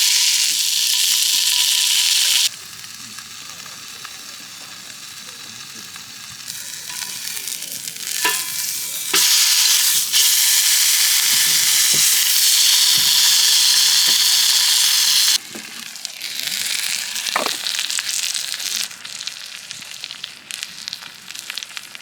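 Food sizzling and frying in a hot pan: a loud hissing sizzle that drops off abruptly after about two seconds, comes back loud for several seconds in the middle, then settles to a quieter crackle, with a few sharp clicks of utensils or the pan.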